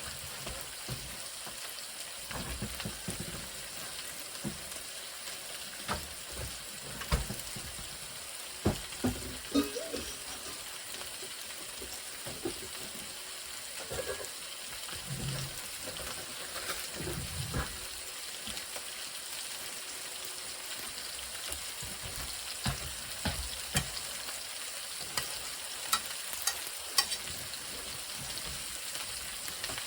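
Chicken frying in a pan with a steady sizzle, with scattered light knocks and clicks.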